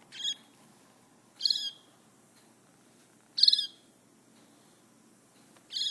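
Baby bird chirping: four short, high calls spaced a second or two apart, each sliding down in pitch.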